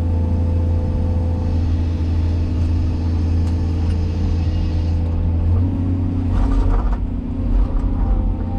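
Cat 336E excavator's diesel engine running with a steady deep hum. About five and a half seconds in, the engine note changes and its lowest part drops deeper, followed by brief noisier stretches.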